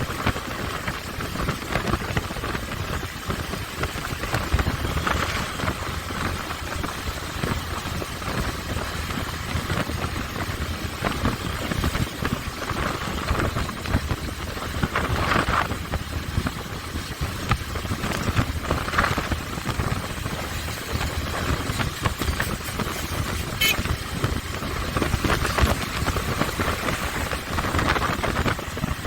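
Motorcycle engine running while riding, with a steady rush of wind noise over the microphone.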